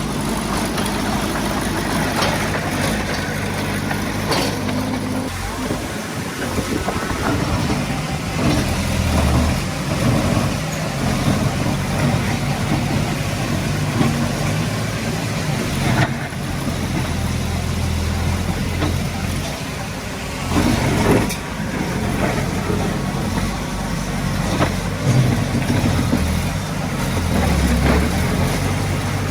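Diesel engine of heavy earthmoving machinery running continuously, its low drone swelling and easing as the load changes. A couple of sharp knocks stand out, at about 16 and 21 seconds in.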